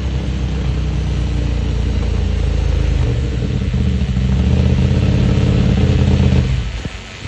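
KTM 890 Duke R's parallel-twin engine, breathing through a full Akrapovic exhaust with the dB killer fitted, pulling hard under load on a Dynojet dyno and getting steadily louder. About six and a half seconds in the throttle closes and the engine note falls away.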